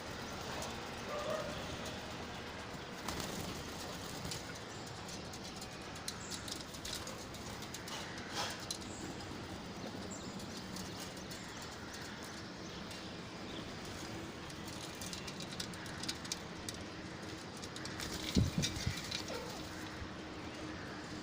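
Bird calls over a steady background hiss, with scattered light clicks and a brief low sound about 18 seconds in.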